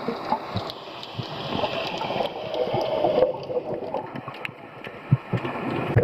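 Water sloshing and gurgling around a camera held in rough water while swimming, with scattered small knocks and clicks.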